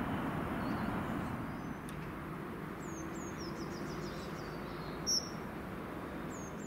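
A low rumble from a freight train moving away fades over the first two seconds. After that, small birds are chirping in quick series of short, high chirps that sweep downward, with one louder chirp about five seconds in, over a faint steady hum.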